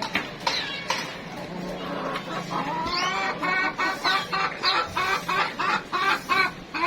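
Chickens clucking: a few short calls, then from about two and a half seconds in a quick run of repeated clucks, several a second.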